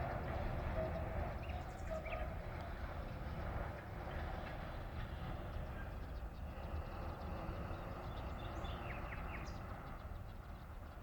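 A low steady rumble with a few short bird chirps, about two seconds in and again near the end.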